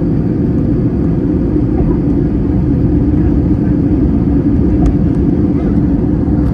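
Airliner cabin noise in flight: a steady, loud drone of the jet engines and rushing air, with a low hum running through it.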